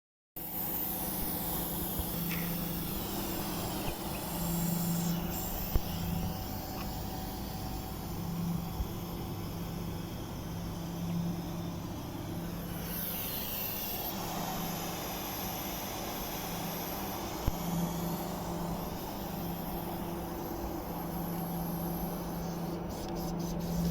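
Steady low mechanical hum of a running air-conditioning unit, with a few sharp clicks, one about six seconds in and another near eighteen seconds.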